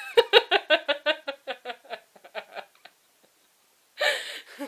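A woman laughing: a quick run of short, even laughs that fade out over about three seconds, then a brief louder burst of voice near the end.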